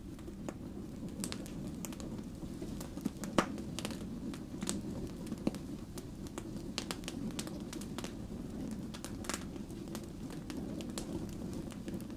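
Wood fire burning: irregular sharp crackles and pops from the burning logs over a steady low rumble of the flames, with one louder pop about a third of the way in.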